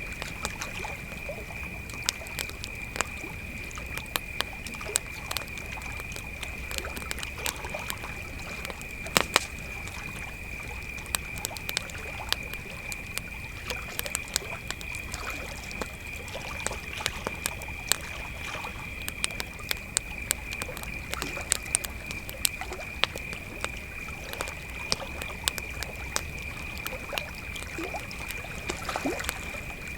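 Crickets chirping in a steady high-pitched band, with a wood campfire crackling in frequent sharp pops and snaps over it.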